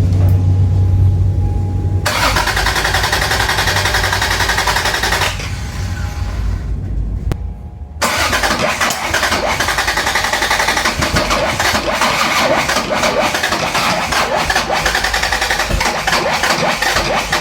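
Toyota Cressida MX83's freshly rebuilt engine being cranked on the starter in two long attempts, the second beginning about 8 seconds in, after a steady low hum at the start. It turns over without catching; the owner later blames distributor timing that was out.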